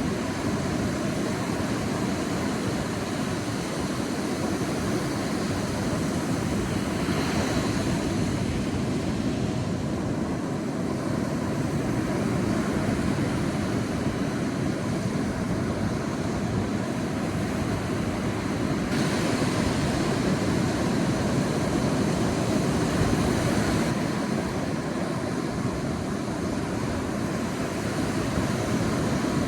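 Sea waves washing on a beach: a steady rush of surf that swells and eases as waves come in.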